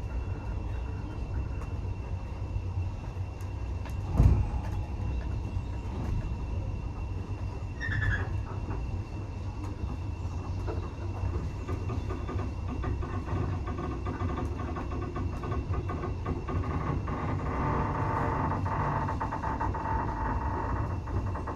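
Railway carriage running along the track with a steady low rumble, a single thud about four seconds in, a short squeal around eight seconds in, and a longer squeal of the wheels near the end.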